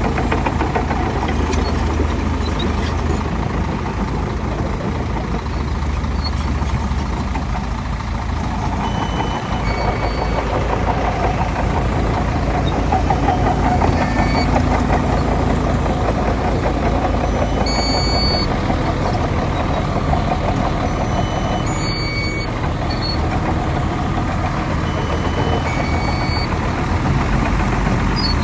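Heavy diesel earthmoving machinery, a bulldozer with dump trucks, running steadily under load. Short high beeps sound now and then.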